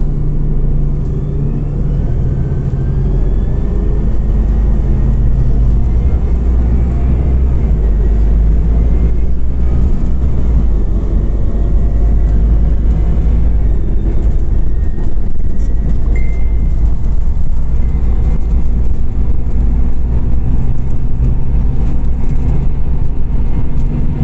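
Scania OmniCity CNG city bus under way, heard from inside the passenger cabin. The gas engine and road noise make a loud, steady low rumble, with a faint rising whine in the first several seconds as the bus picks up speed.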